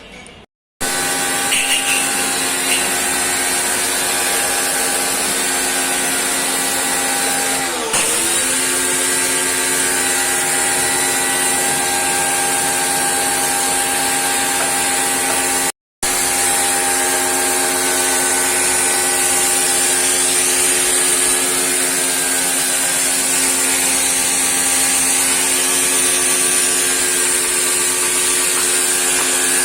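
Electric high-pressure washer running steadily, a motor whine over the hiss of the spray. About eight seconds in, the pitch dips briefly under load and then recovers.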